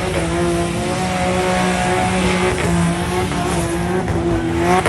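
Car engine held at high, steady revs while the tyres spin and squeal, the revs dipping briefly a couple of times.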